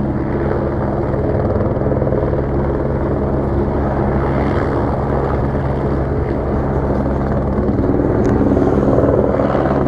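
Helicopter overhead: a steady drone of engine and rotor with a low hum, swelling slightly near the end.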